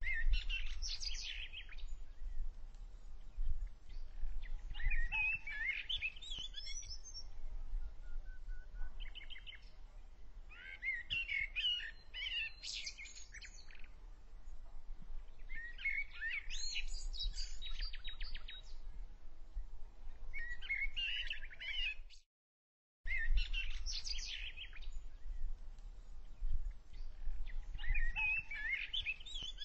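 Songbirds chirping in short bursts of rapid notes every few seconds, over a low steady rumble. The sound cuts out completely for under a second about three-quarters of the way through.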